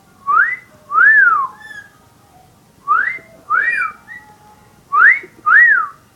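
Indian ringneck parakeet whistling a two-note wolf whistle three times, each a rising note followed by a rise-and-fall note.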